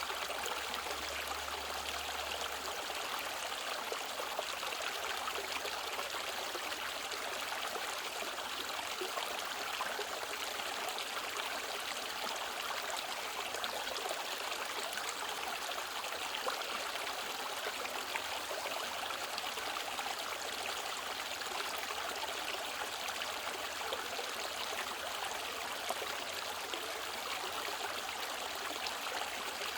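Mountain valley stream flowing over rocks, a steady rushing and trickling of water.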